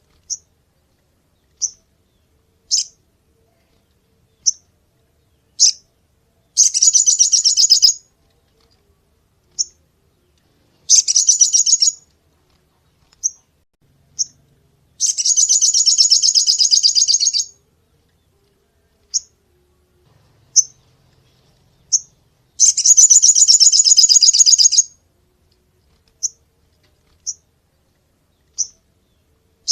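A sogon songbird calling: short, sharp, high single notes every second or two, broken four times by a longer high trill lasting about one and a half to two and a half seconds.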